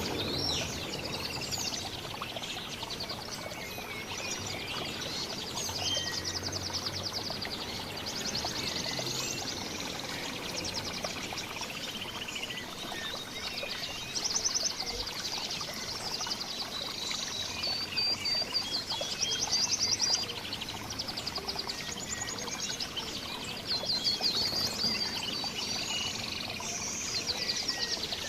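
Several small songbirds chirping and singing together, with rapid high trills recurring every few seconds, over a steady background hiss.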